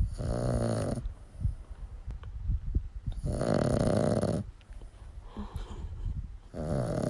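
Dog snoring: three snores about three seconds apart, each lasting about a second, the last starting near the end. Low, irregular bumps sound between the snores.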